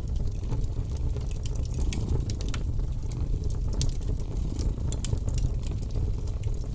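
Wood fire crackling, with irregular sharp pops and snaps, over a steady low cat purr.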